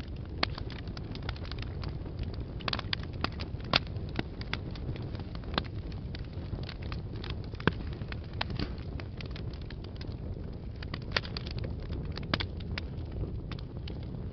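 Wood fire burning in a fireplace: a steady low rush of flames with irregular crackles and sharp pops, a few louder snaps standing out.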